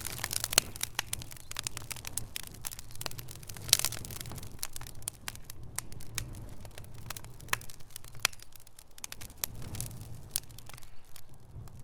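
Wood fire crackling in a fireplace: a dense run of sharp pops and snaps over a low rumble of the flames, with louder pops about half a second in and just before four seconds in.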